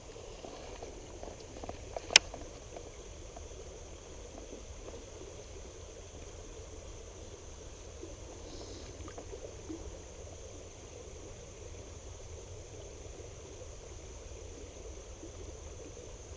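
Steady rush of flowing river water around a wading angler, with a single sharp click about two seconds in.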